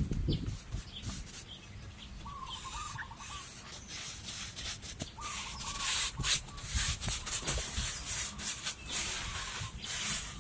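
Repeated scraping or rubbing strokes, coming quickly and getting louder in the second half, with two short wavering bird calls before them.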